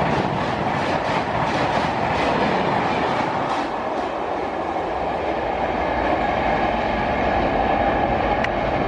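Express passenger train passing at speed, its wheels clicking over the rail joints about two to three times a second. The clicking stops a few seconds in as the last coach goes by, leaving a steady rumble of rail noise.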